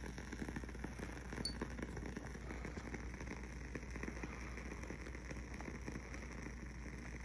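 Wooden-wick aroma candle burning, the wick crackling with small, irregular pops like a fireplace, with a slightly sharper pop about a second and a half in.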